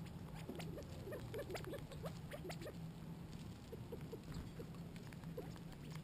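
Small animals moving about on the ground: many quick, irregular light ticks and taps over a low steady hum.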